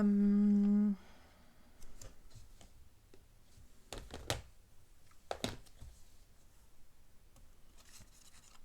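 A short held hum from the crafter, then paper pieces being handled on a craft table: light rustling with a few sharp taps and clicks, the loudest about four and five and a half seconds in.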